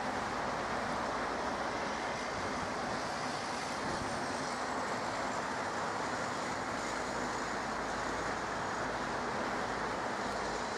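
Jet aircraft engine noise: a steady rush with a faint high whine that falls slightly in pitch about four seconds in.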